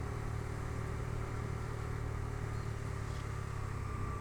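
Bajaj Dominar 250's single-cylinder engine running at a steady pace under way, a low even hum.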